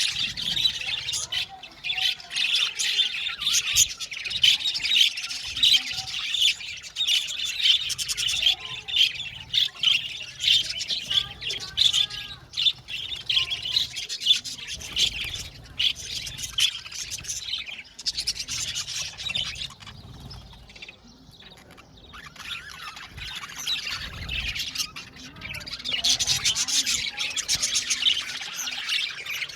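A flock of budgerigars chattering: many overlapping rapid chirps and squawks, thinning out briefly past the middle before the chatter picks up again.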